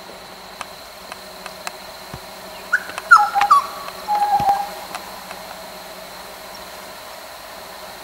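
Wild birds calling: a short run of whistled calls about three seconds in, followed by a held, slightly wavering note just after four seconds, over a steady high-pitched background tone.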